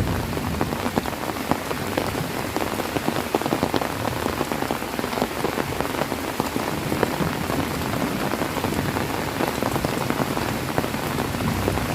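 Heavy rain falling steadily, with many separate drops striking a surface close by.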